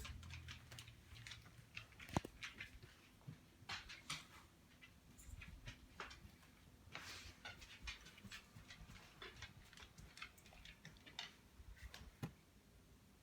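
Faint, irregular small clicks and taps close to the microphone, with one sharper click about two seconds in, as background music fades out at the very start.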